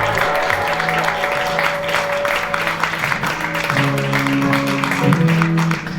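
Live indie rock band playing: electric guitars with effects, bass guitar and drums, the bass line moving to new notes about halfway through.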